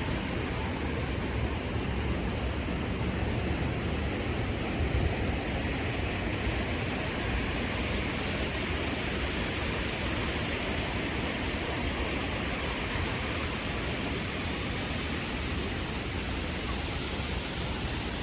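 Steady city street noise: an even hiss with a low rumble, the sound of traffic and gusty wind.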